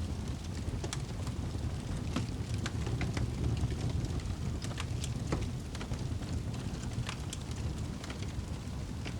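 Wood fire crackling: a steady low rumble of flames with frequent, irregular sharp pops and snaps.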